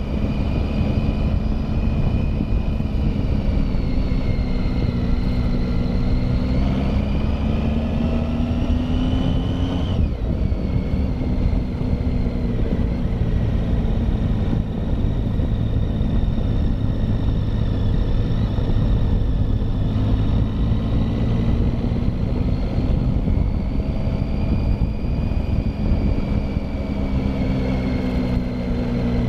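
Triumph Tiger motorcycle engine running under way. Its pitch rises for several seconds, drops abruptly about ten seconds in, then climbs again in the last third.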